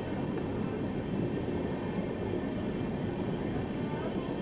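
Steady rumble of an Indian passenger train running on the rails, heard from aboard the moving train.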